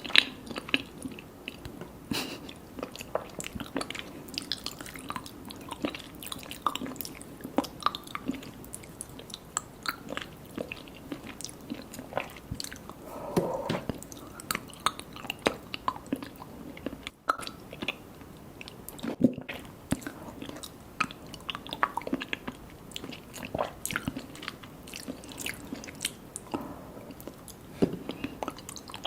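Close-miked chewing and biting of soft mango mochi and popping mango boba: a steady run of wet mouth clicks and smacks.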